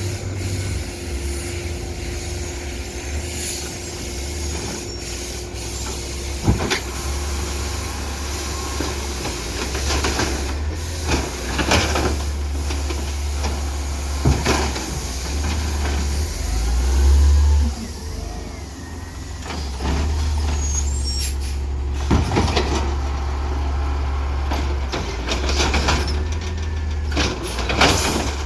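Garbage truck engine running with a steady low rumble, with sharp clanks and bangs every few seconds. The engine swells louder briefly a little past halfway.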